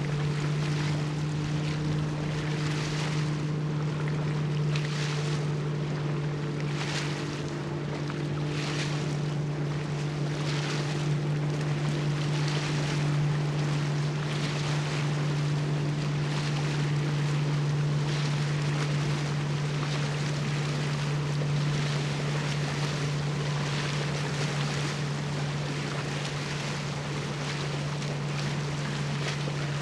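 Steady low drone of a cargo ship's engines carrying across the water, with a couple of higher tones in it that fade out about halfway through. Over it, soft washes of waves come every couple of seconds, with some wind on the microphone.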